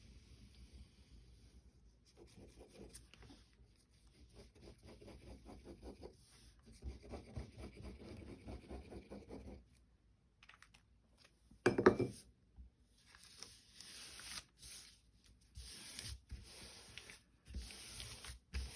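Paper rubbing and rustling as a brown paper bag is glued and pressed down by hand, in runs of scratchy strokes. A single sharp knock about twelve seconds in is the loudest sound.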